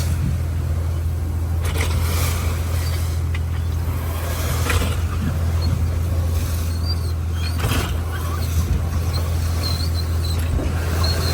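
Trawler's engine running underway, a steady low drone, with a few short knocks and some faint, brief high squeaks over it.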